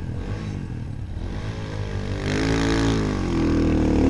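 Motorcycle engine revving under load in second gear on a hill climb, its pitch rising and falling, then growing louder near the end.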